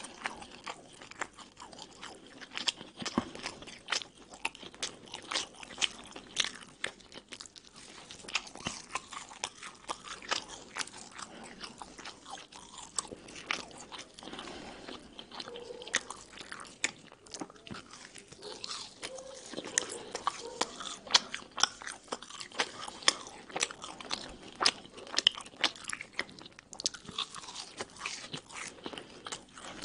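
Close-miked chewing and biting of Egyptian hawawshi, crisp baked baladi bread stuffed with spiced minced meat, with dense, irregular crunches of the browned crust.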